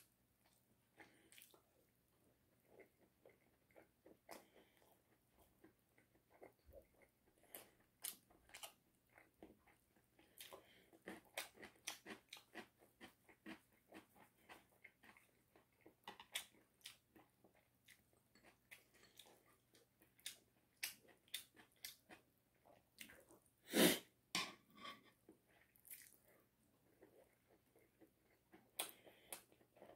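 Close-miked chewing and biting of Goobne oven-baked chicken: a steady run of short, crisp crunches and wet chewing sounds, with one louder, longer bite a little before two-thirds of the way through.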